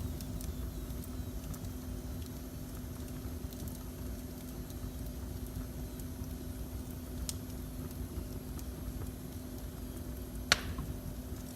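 Fireplace fire burning with a low steady rumble and occasional faint crackles, then one loud sharp pop near the end.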